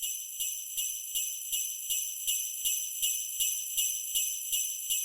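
Sleigh bells jingling in a steady rhythm, about two and a half shakes a second, with a bright, high ring.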